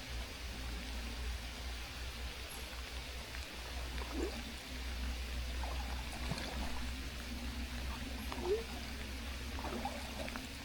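Rain falling and river water flowing, with a steady low rumble under it. Short gurgles and small splashes come through a few times.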